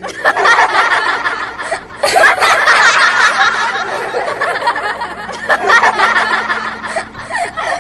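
A group of children's voices laughing and chattering over one another, with fresh bursts about two seconds in and again about five and a half seconds in.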